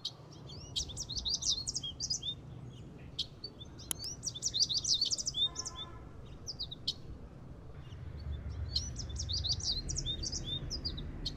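Songbirds chirping in three runs of quick, high notes, over a steady low rumble.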